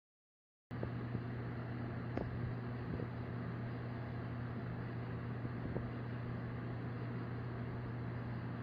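A steady low electrical or mechanical hum over an even hiss, with a few faint clicks. It starts abruptly after a short moment of dead silence.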